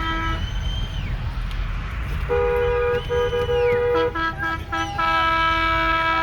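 Several vehicle horns honking over one another in long, steady blasts of different pitches, over the constant low rumble of an engine.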